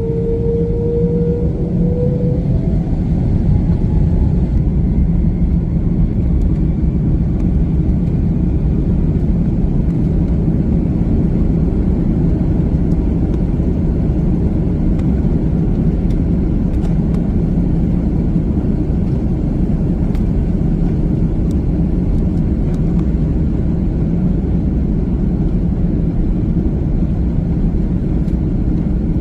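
Airbus A330-300's twin turbofan engines spooling up to takeoff thrust, heard from inside the cabin. A whine rises in pitch over the first two seconds, then gives way to a loud, steady rumble.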